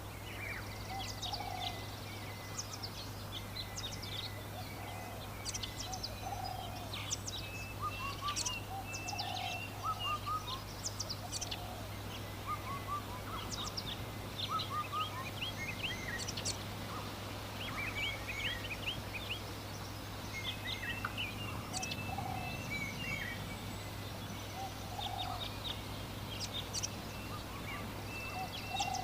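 Many small birds chirping busily with short, high calls, joined every second or two by a lower, rounder repeated call, over a steady low hum.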